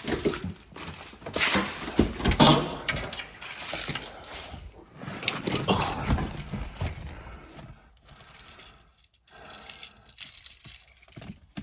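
Keys jangling and clinking as they are handled, with irregular clattering that is busiest in the first seven seconds and then thins to a few quieter clinks.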